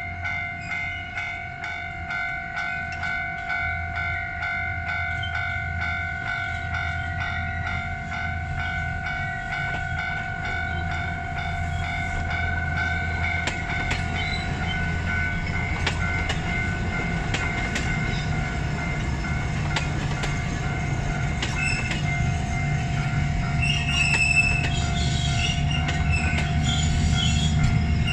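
Alishan Forest Railway train coming up and passing close by. A low rumble grows louder toward the end, under a steady high-pitched tone that lasts throughout.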